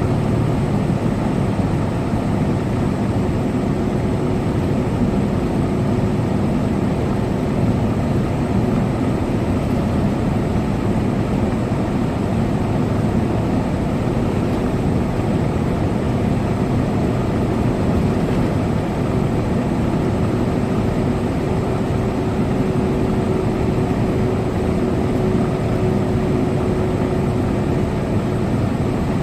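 Semi truck driving at highway speed: a low, steady drone of engine and road noise with no let-up. A faint steady tone sounds through part of the second half.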